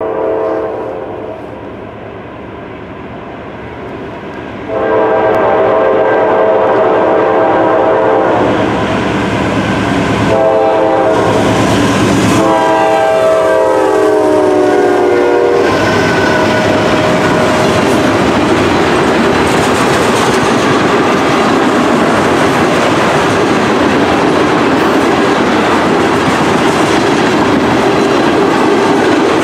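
Norfolk Southern freight locomotive's horn sounding several long blasts, the last one dropping in pitch as the locomotive goes by. It is followed by the steady rumble and clickety-clack of the oil train's tank cars rolling past.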